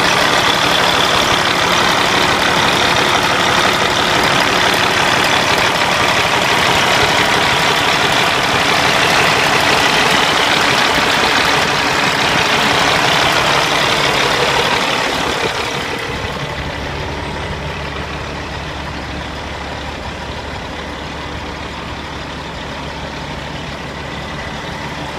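Caterpillar C15 diesel engine idling, sounding very good. A loud rushing noise over the engine dies down about fifteen seconds in, leaving a quieter, steady low hum.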